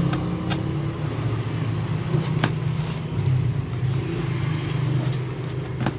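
A steady low motor hum that swells and eases slightly a few times, with a couple of faint clicks.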